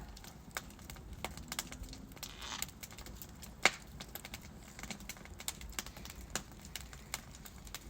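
Burning wood logs crackling in a fireplace: scattered small irregular pops and clicks over a low hiss, with one louder sharp snap a little past halfway.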